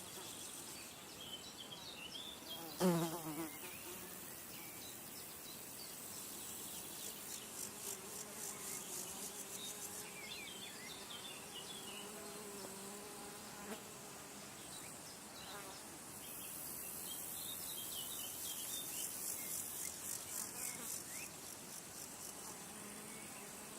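Insects buzzing and trilling: a high pulsing trill swells twice, over a lower wavering hum, with scattered faint bird chirps. A short, louder call with a falling pitch comes about three seconds in.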